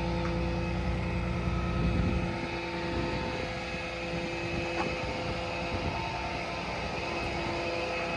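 Truck-mounted hydraulic service crane running under power: a steady mechanical whine from the hydraulics over a diesel engine rumble. The low rumble eases off about two seconds in while the whine carries on.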